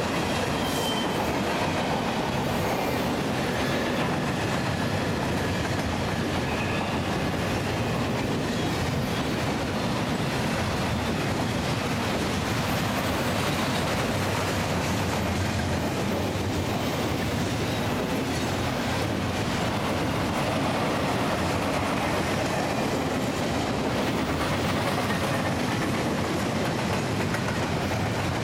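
Double-stack intermodal well cars rolling past at steady speed: a continuous rumble and clatter of wheels on rail, with a faint wheel squeal now and then in the first few seconds.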